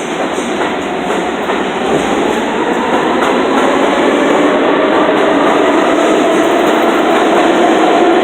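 New York City subway train running through an underground station, growing louder, with wheels clacking over the rail joints and a faint motor whine that rises slightly in pitch in the second half.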